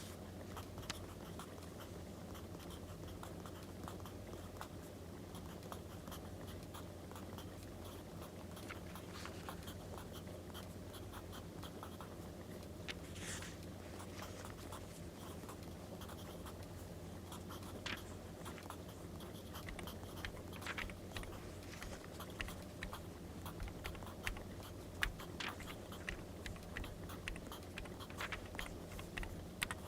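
Crackling wood fire: scattered small pops and snaps over a steady low hum, getting busier in the second half. Writing on paper is mixed in.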